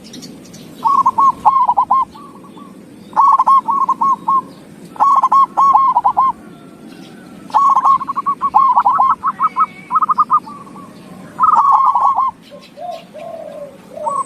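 Zebra dove (perkutut) cooing song: bursts of rapid, repeated high coo notes with short pauses between them, five phrases in all, the longest one in the middle. Softer, lower-pitched coos come near the end.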